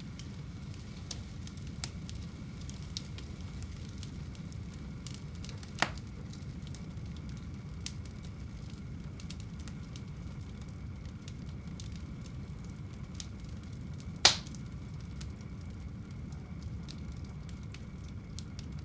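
Fire burning in a home fireplace: a steady low rumble of flame with scattered small crackles, and two sharp pops, one about six seconds in and a louder one about fourteen seconds in.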